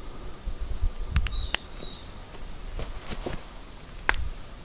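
Outdoor ambience: uneven low rumbling on the microphone, a few sharp clicks and a couple of brief high chirps.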